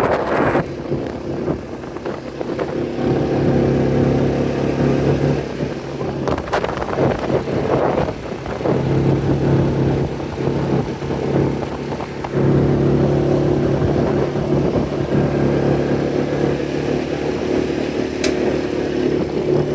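An engine running at a steady speed, its even hum fading for a few seconds about a third of the way in, with a couple of brief sharp clicks.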